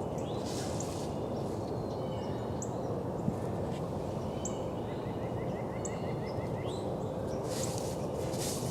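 Springtime woodland ambience: a steady low rushing noise under scattered high songbird chirps, with a quick trill of about eight repeated notes about five seconds in.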